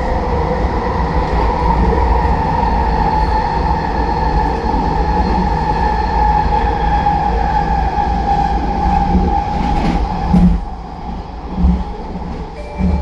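SkyTrain car running with a steady high whine over a low rumble. The whine slides slowly down in pitch and cuts off about ten seconds in, leaving the rumble and a few short low thumps.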